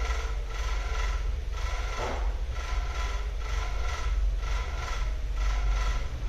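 Hand-tool scraping strokes from repair work on a laptop, coming irregularly about once a second, over a steady low hum and a faint steady whine.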